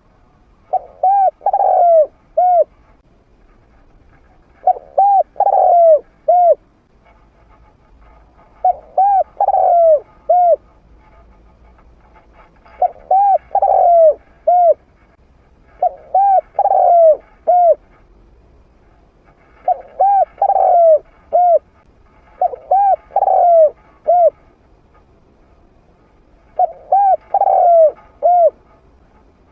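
Trained spotted dove with a medium-pitched voice cooing: eight loud phrases of four or five short hooting notes, one every three to four seconds.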